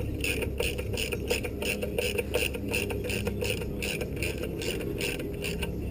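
A hand ratchet clicking in an even rhythm, about three clicks a second, as a bolt is worked in, over a low steady hum.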